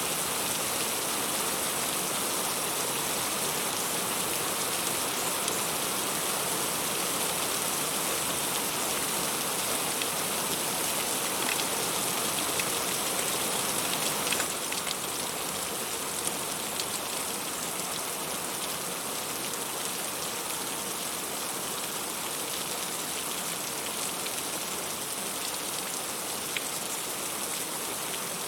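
Heavy rain falling steadily, a dense hiss with scattered single drop ticks, a little softer from about halfway.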